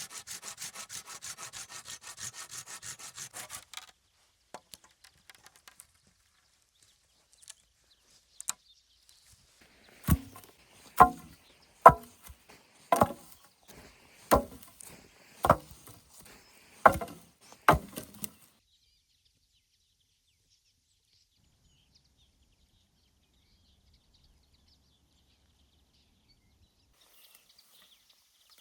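Wood being cut: quick back-and-forth hand-saw strokes for the first few seconds, then about eight sharp chopping blows into wood, roughly one a second, which stop well before the end.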